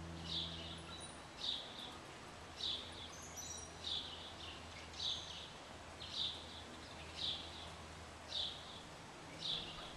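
A small bird chirping repeatedly in an even rhythm, one short, high, slightly falling chirp about every second, over a faint low hum.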